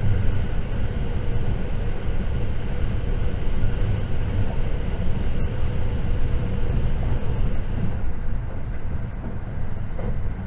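Cabin noise inside a JR 681 series electric limited express running at speed: a steady rumble of wheels on rail, heaviest in the low end, with a faint steady hum.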